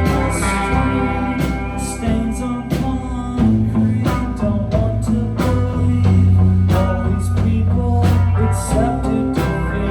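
Live band playing a blues-rock song: guitar and bass over drums with regular cymbal hits.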